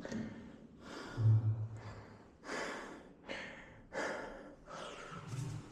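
A person breathing hard and fast from climbing stairs: a run of heavy, hissing breaths in and out, about one a second or quicker.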